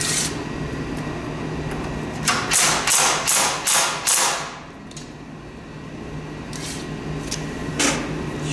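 Hand tool working on a head bolt of a Tecumseh snowblower engine: a quick run of about six sharp metallic strokes, about three a second, a few seconds in, then a couple of single knocks near the end, over a steady low hum.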